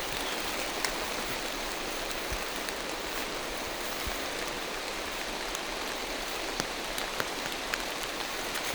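Steady rain falling through forest trees: an even hiss with scattered sharp ticks of drops.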